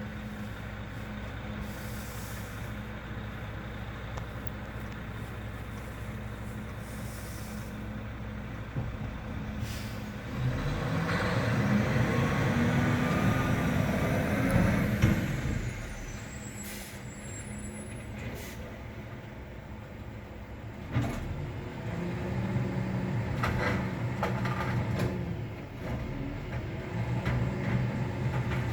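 Garbage truck's diesel engine idling steadily. About a third of the way in, it runs louder and busier for some five seconds, then settles. A single knock comes about two-thirds in, after which the engine runs a little louder again.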